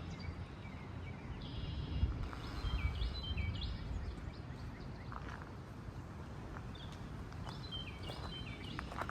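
Songbirds singing: bursts of short, clear whistled notes stepping up and down in pitch, a little over a second in, around three seconds, and again near the end, over a steady low rumble.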